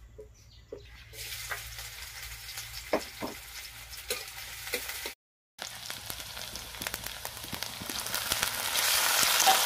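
Chopped onion frying in hot oil in an iron kadhai over a wood-fired mud stove: the sizzle starts about a second in with a couple of dull knocks against the pan, then grows steadily louder through the second half.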